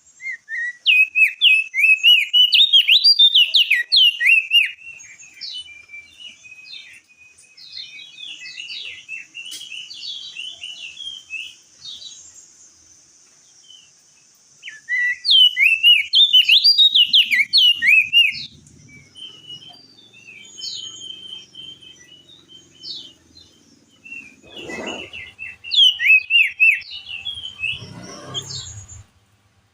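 Crested darkeye (opior jambul) singing in three bursts of fast, high, chattering song, starting about a second in, about fifteen seconds in and about twenty-five seconds in, with softer scattered notes between. Two dull thumps near the end.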